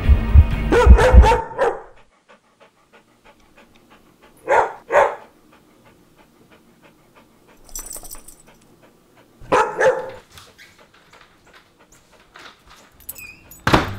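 A dog barking: short barks near the start, two in quick succession about four and a half seconds in, and more about ten seconds in, with faint steady ticking underneath. Music fades out in the first second or two.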